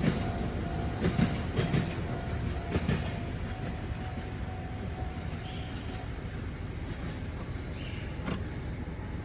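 A train passing over a level crossing: wheels clack over rail joints several times in the first three seconds, then the rumble eases off and stays steadier and quieter.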